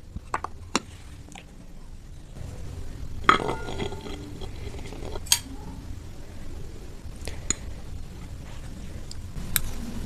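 Cutlery clinking against dishes several times at uneven intervals. The loudest strike comes about three seconds in and rings on briefly.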